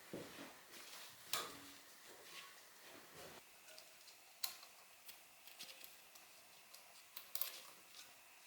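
Faint, scattered clicks and taps of small hard objects being handled, with sharper knocks about a second and a half in, four and a half seconds in, and a cluster around seven seconds in.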